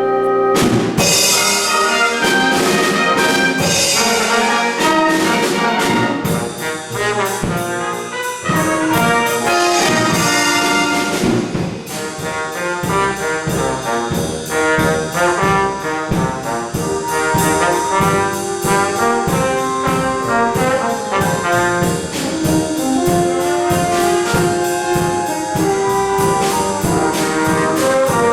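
A live orchestra playing, with brass to the fore, settling into a steady rhythmic beat partway through.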